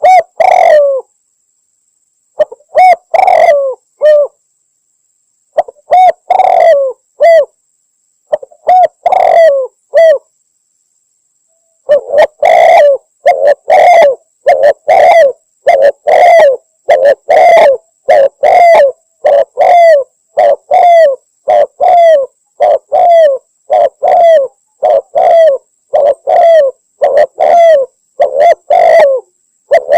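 Spotted dove (tekukur) cooing, a lure call for hunting that is billed as a female calling males. For about ten seconds the coos come in short groups of three or four with pauses between them; then, from about twelve seconds in, they run on without a break at about two coos a second. A faint steady high tone lies under the calls.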